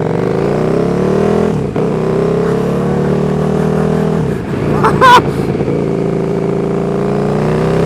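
KTM 1290 Super Duke R's V-twin engine, breathing through a RaceFoxx link pipe and Pipewerx slip-on exhaust, pulling hard through the gears: the pitch climbs, drops back at each of two gear changes and climbs again. A short, louder burst cuts in about five seconds in. The exhaust is so loud the owner calls it obnoxious.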